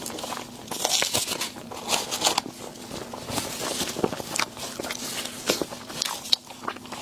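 Close-miked mukbang eating noises: irregular crinkling, crunching and small clicks of food and its wrapping being handled and bitten.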